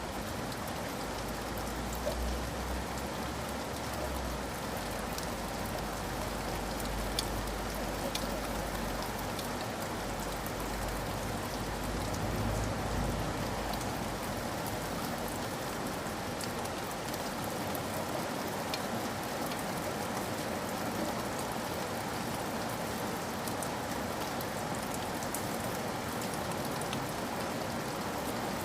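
Steady rain falling, an even hiss with scattered sharp drop taps. A low rumble sits under it for the first half and fades out about halfway through.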